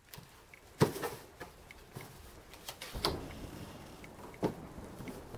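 Cards and small objects being laid and tapped on a tabletop: about seven scattered light knocks, the sharpest about a second in.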